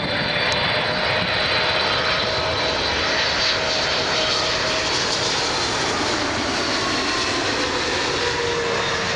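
Boeing 777-300ER's twin GE90-115B turbofans going by, a loud, steady jet noise with faint whining tones, one of them dropping slightly in pitch near the end.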